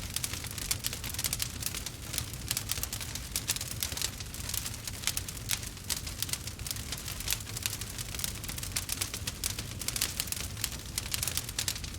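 Wood fire burning, with dense, constant crackling and small pops over a low steady rumble.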